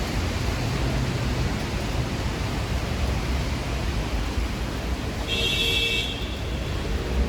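Steady hiss of rain falling on a city street, with low traffic rumble underneath. About five seconds in, a brief high-pitched tone sounds for under a second.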